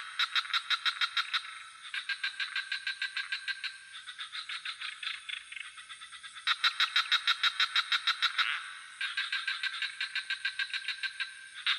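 Frogs calling in rapid pulsed trills, about seven pulses a second, in overlapping bouts of about two seconds that start and stop in turn. A steady high insect drone runs beneath.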